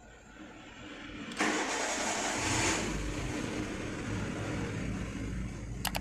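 Renault Duster petrol engine cranked by the starter about a second and a half in, catching quickly and settling into a steady idle. It is starting with its failed intake air temperature sensor bypassed by a fixed resistor.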